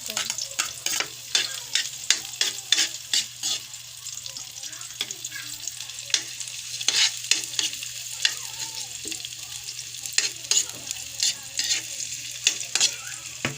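Garlic sizzling in hot oil in a pan while a spatula stirs it, with many quick scraping and clinking strokes against the pan over a steady frying hiss.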